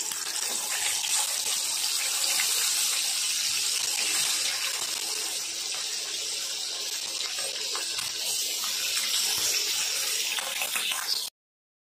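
Ham pieces frying in hot oil in a wok: a steady sizzling hiss full of small crackles that cuts off abruptly near the end.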